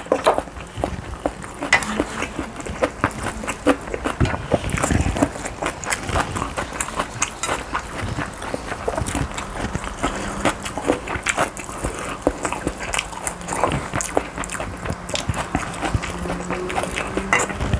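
Close-up eating sounds: steady chewing with many small irregular wet clicks and smacks of the mouth and utensils.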